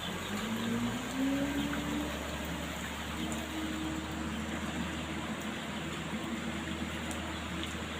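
Truck engine running in the rain, with rain hissing over everything. The engine note rises over the first two seconds, as if revving or gathering speed, then holds steady.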